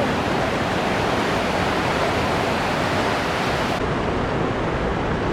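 Ocean surf and wind making a steady, even rush of noise.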